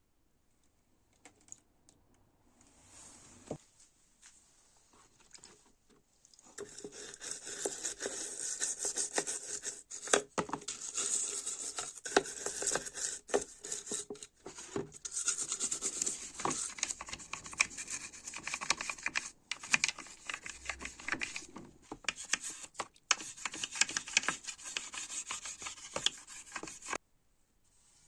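Fast, continuous rubbing and scraping strokes on a hard surface, as in hand sanding or scrubbing a part. It starts in earnest about six seconds in, after a short fainter burst, and stops abruptly near the end.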